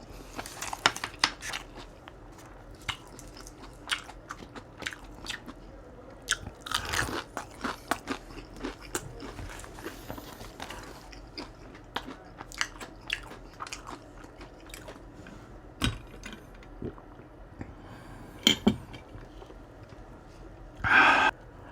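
Close-miked eating: chewing and crunching with many wet mouth clicks. A louder crunchy stretch comes about seven seconds in and another near the end.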